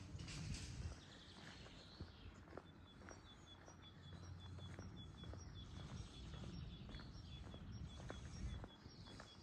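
A small bird calling with a rapid, even series of short high chirps from about three seconds in, over faint footsteps on pavement and a low background rumble.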